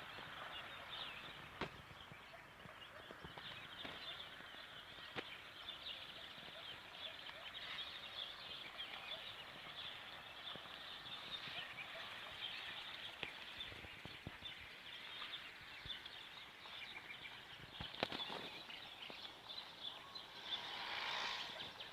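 Many small birds chirping together in a continuous busy chatter, with a few sharp clicks, the loudest about 18 seconds in.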